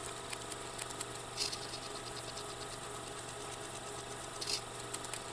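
A steady low hum, like a machine or amplifier running, with two faint brief clicks, about a second and a half in and again near the end.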